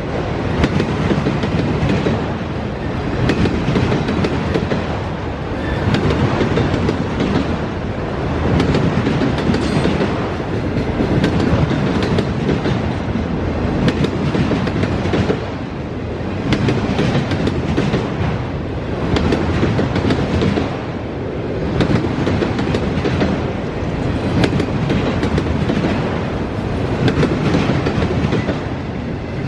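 Freight train cars rolling past, wheels clicking over rail joints over a steady rumble that swells and dips as each car goes by.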